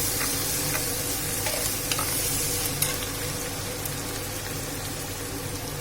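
Ginger-garlic paste and golden-brown onions sizzling in hot oil in a wide pot while being stirred, with a few sharp ticks of the spoon against the pot in the first few seconds.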